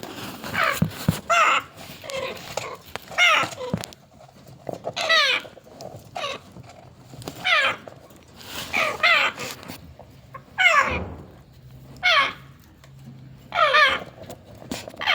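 Kakariki (New Zealand parakeets) calling: short, wavering calls repeated every second or two.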